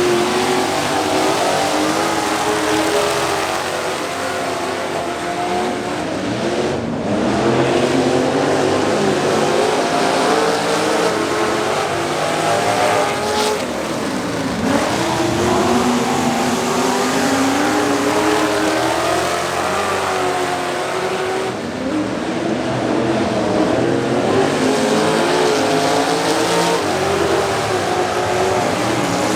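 Engines of several racing trucks running at speed together, their pitches rising and falling and overlapping as the field accelerates and lifts around the track.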